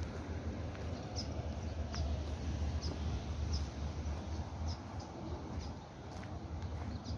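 A small bird chirping, short high chirps about once a second, over a steady low rumble.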